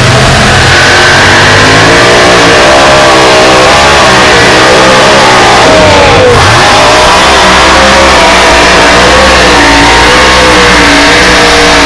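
Super stock pulling tractor engine at full throttle, very loud, its pitch wavering up and down as the revs rise and fall under load.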